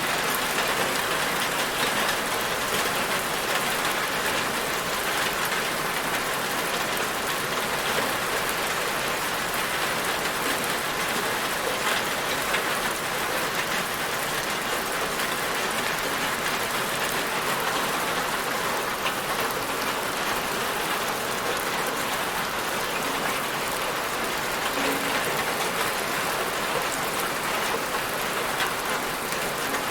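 Steady rain falling on a surface, an even hiss of many drops with occasional individual drop ticks.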